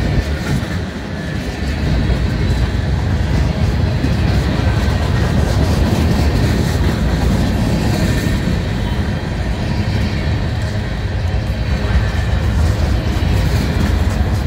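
Centerbeam flatcars and boxcars of a BNSF freight train rolling past close by, their steel wheels running on the rails in a loud, steady rolling noise.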